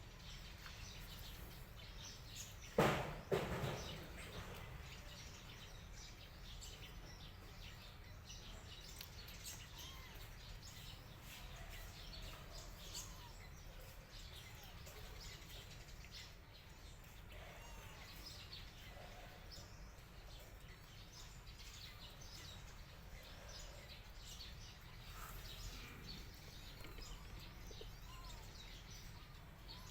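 Faint outdoor background with birds chirping and scattered small ticks. A sudden loud knock, quickly followed by a second, comes about three seconds in.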